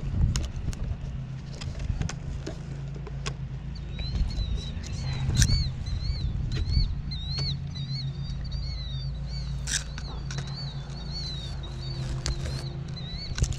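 A small bird's rapid series of high, arching chirps, starting about four seconds in and running until near the end, over scattered clicks and a steady low hum.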